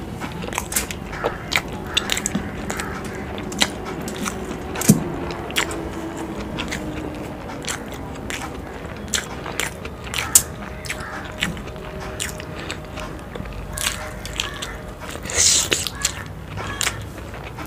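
Close-miked eating sounds of fried boiled eggs in spicy curry: chewing, with many short wet mouth clicks and lip smacks. A brief, louder breathy burst comes near the end.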